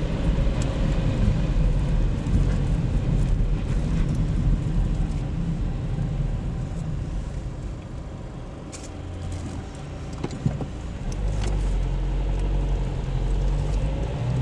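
Car on the move: steady low engine and tyre rumble, easing off briefly around the middle and then picking up again, with one sharp click about two-thirds of the way through.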